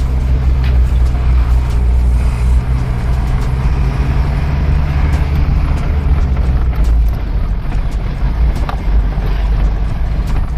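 Tata truck's diesel engine running steadily under way, a continuous low hum with road noise and a few light clicks.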